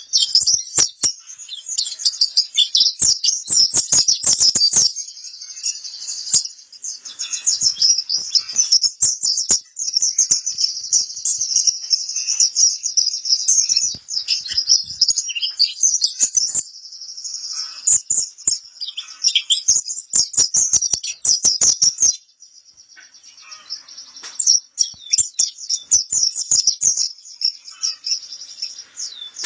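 White-eye (pleci kapur) singing a long, fast, high twittering song of rapid chirps, with a few short breaks and a quieter stretch about two-thirds of the way through.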